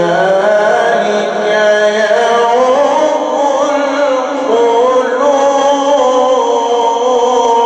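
A male reciter's voice in melodic Quran recitation, singing one long, unbroken ornamented line that winds slowly up and down in pitch.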